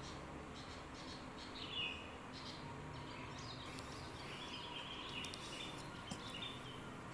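Faint birds chirping in short, repeated calls over low steady background noise with a thin faint hum.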